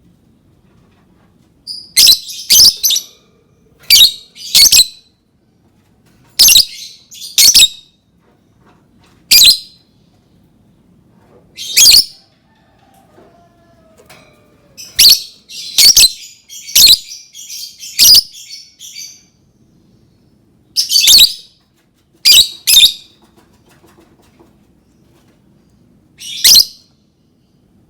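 Lovebird giving loud, sharp, high-pitched calls, singly or in quick pairs with pauses of a second or two between them, and a rapid run of calls about halfway through.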